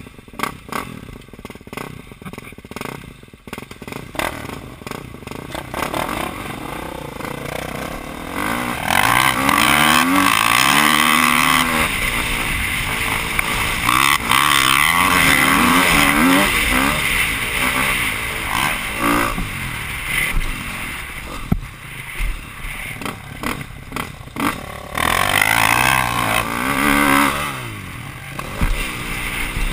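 Motocross dirt bike engine heard on board, revving up and down as the rider works the throttle through the gears, loud from about a third of the way in. Sharp knocks and rattles from the bike over the track come through mostly in the quieter opening seconds, with wind hiss throughout.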